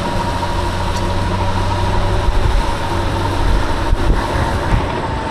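Wind rushing over an unshielded microphone on a moving bike, mixed with traffic noise and the steady low hum of a nearby vehicle's engine, which fades about three and a half seconds in.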